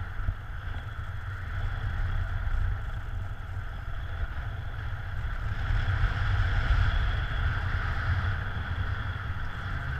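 Wind rushing over the microphone in paraglider flight: a steady low buffeting rumble with a steady higher rushing hiss of the airflow, swelling a little partway through.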